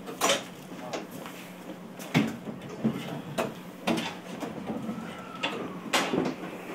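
Inside a Tokyu 6020 series commuter train car: scattered sharp knocks and clacks, about six in a few seconds, over the car's steady air-conditioning hum.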